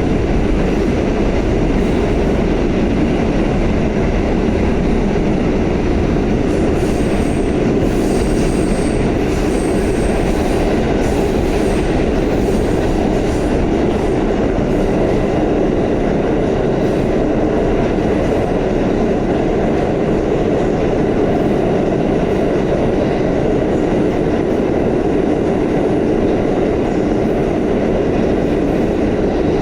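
Pullman-Standard R46 subway train running at speed, a steady heavy rumble of wheels on rail, with faint high wheel squeals about 7 to 11 seconds in.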